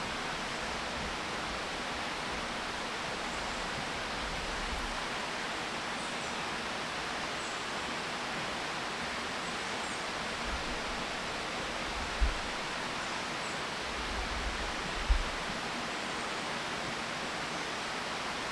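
Steady rushing outdoor ambience, an even hiss throughout, with faint high chirps now and then and two short low bumps, about twelve and fifteen seconds in.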